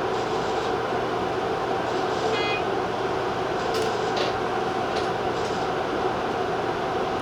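Tobu TJ Liner electric train running at speed, heard from inside: a steady rolling rumble and motor hum, with a brief high tone about two and a half seconds in and a few light clicks of wheels over rail joints later on.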